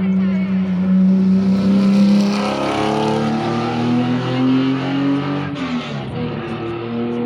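Rally car engine accelerating hard, its pitch climbing, dropping with an upshift about two-thirds of the way in, then climbing again.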